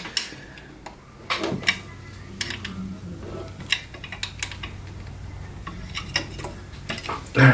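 Scattered metallic clicks and clinks of a screwdriver driving screws to fasten a plastic accessory holder onto a sewing machine.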